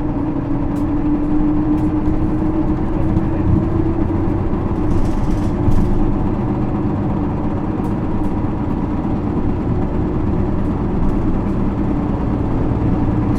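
Isuzu Erga city bus with a 6HK1 six-cylinder diesel, heard from inside the cabin while under way. The engine note rises a little over the first few seconds and then holds steady over road rumble, with a few faint clicks.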